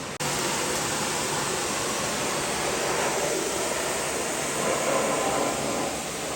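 Pressure washer spraying water in a steady hiss, briefly cutting out right at the start.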